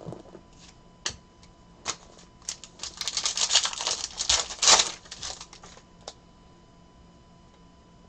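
Hands handling trading cards and their crinkly plastic or foil packaging: a few sharp clicks, then about three seconds of dense crinkling and rustling, then a couple of light clicks.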